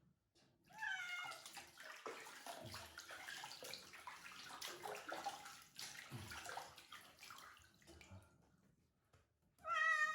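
A cat meowing in protest while it is bathed: one meow about a second in, water running and splashing over it for several seconds, then a louder, wavering meow near the end.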